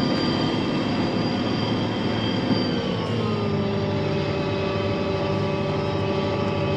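John Deere self-propelled forage harvester heard from inside its cab, running with a steady, loud drone of engine and cutterhead. About three seconds in its pitch drops and then holds steady at the lower note, as the machine slows.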